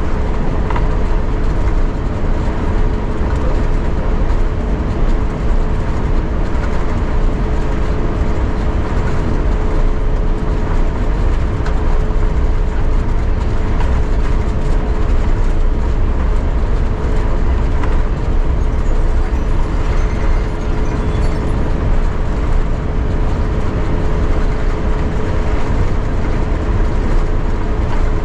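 Cabin noise inside an Airbus A350-900 on the ground after landing: a steady low rumble with a constant hum over it.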